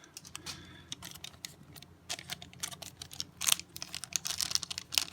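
Trading card pack and cards being handled: a run of irregular small clicks and crinkling crackles, over a faint steady low hum.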